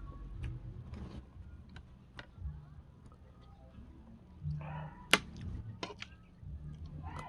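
Scattered clicks and light knocks of kitchen utensils, with one sharp click about five seconds in.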